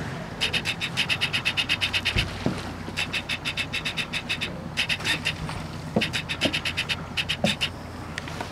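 A bird calling in rapid clicking trills, about eight notes a second, in repeated bursts of a second or two with short pauses between. A few soft knocks come in between the bursts.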